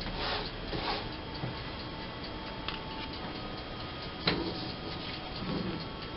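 Steady, rapid ticking, several ticks a second, with brief rustling in the first second and a single sharp tap about four seconds in.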